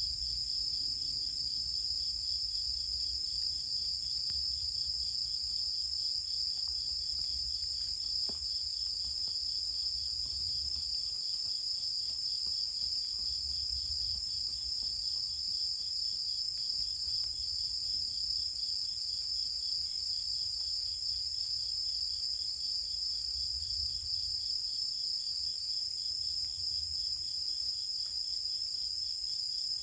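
Chorus of singing insects: several steady, high-pitched trills layered together, one of them a fast pulsing trill just below the loudest. A faint low rumble sits underneath, and the whole chorus runs on evenly without a break.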